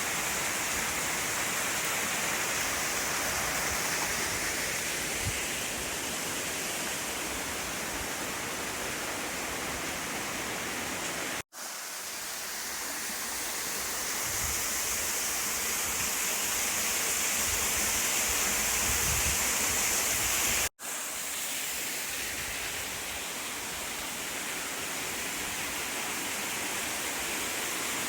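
Waterfall rushing steadily, a constant hiss of falling water that breaks off for an instant twice.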